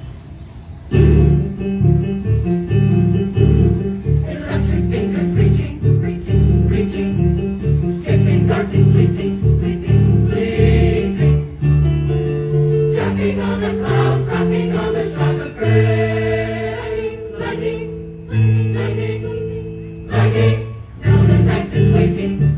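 A teen vocal ensemble sings with instrumental accompaniment. A rhythmic bass line of short repeated low notes runs under the chords.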